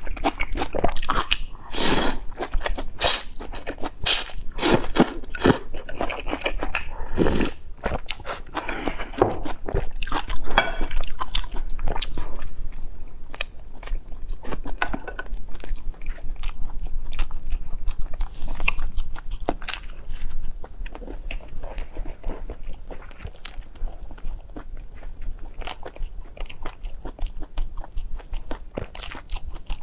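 Close-miked eating sounds: a person biting and chewing wide noodles, busy and louder for the first dozen seconds, then sparser, quieter chewing of a flatbread.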